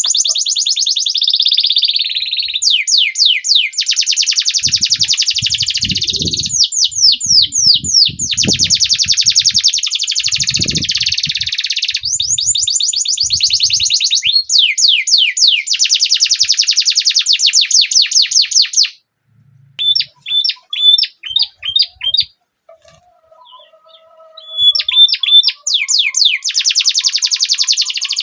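Canary singing a long song of fast rolling trills and rapid runs of rising chirps. About nineteen seconds in it breaks off into a few separate chirps and a brief pause, then picks the rolling song up again near the end.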